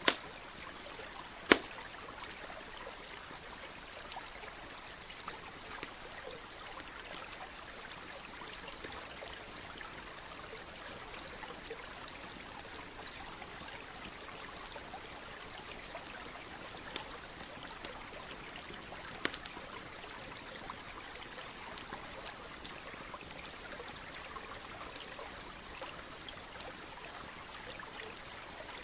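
Campfire crackling with scattered sharp pops, over a steady trickling stream. A single pop about a second and a half in is the loudest, and a small cluster of pops comes about two-thirds of the way through.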